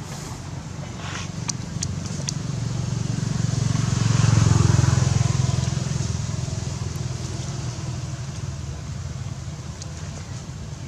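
A motor vehicle passing by: its engine hum swells to its loudest about four to five seconds in, then fades away. A few sharp clicks sound in the first two seconds.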